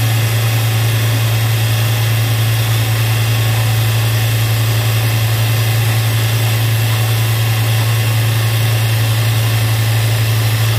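Ford 1.6 L EcoBoost four-cylinder engine running steadily at around 3000 rpm, picked up close to the back of the engine block.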